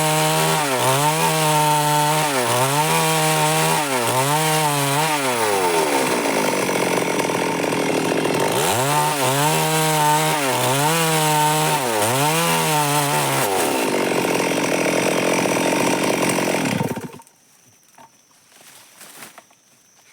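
Stihl MS 382 two-stroke chainsaw cutting wood, the engine pitch dipping and recovering about once a second as the chain loads up in the cut, in two spells. The saw cuts off abruptly near the end.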